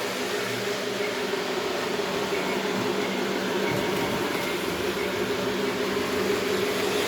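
Lionel O-gauge F3 diesel model locomotive running along the track, a steady hum of its motors and rolling wheels mixed with its RailSounds diesel engine rumble.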